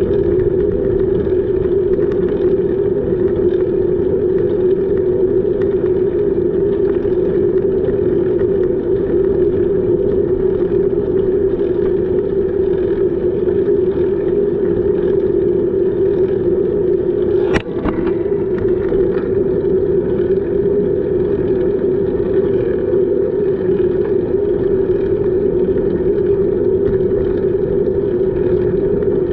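Steady rushing noise of a bicycle ride, wind on the camera microphone mixed with rolling noise, with one sharp knock a little past halfway.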